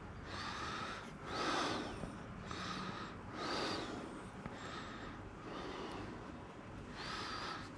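A person breathing heavily and noisily close to the microphone, about one breath a second, some breaths with a faint whistle.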